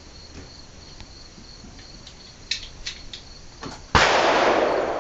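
One AK-pattern rifle shot about four seconds in, its report trailing off in a long echo. Before it, crickets chirp faintly.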